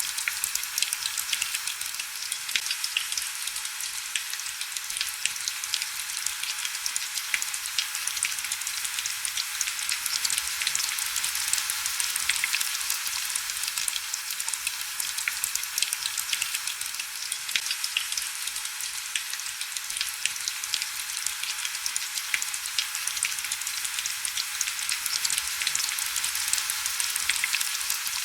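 Steady heavy rain: a dense, even hiss full of small, crackling drop ticks, with little low rumble.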